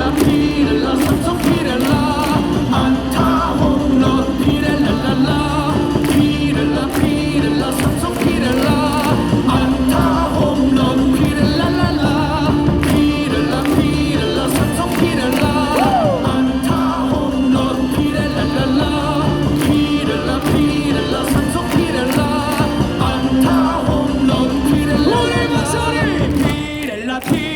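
A baseball cheer song played over stadium loudspeakers, with a crowd of fans singing along and clapping to the beat. It breaks off briefly a second or so before the end.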